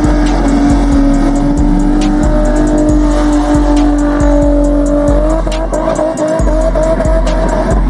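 A car engine held at high revs with tyres squealing, as in a burnout in the pit. Its pitch is steady and then steps up about five seconds in. Music with a heavy bass beat plays over it.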